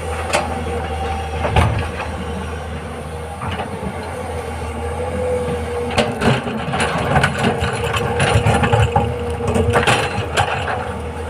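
Tata Hitachi hydraulic excavator working overburden: its diesel engine runs steadily under a held whine, with repeated knocks and clatters that grow busier in the second half.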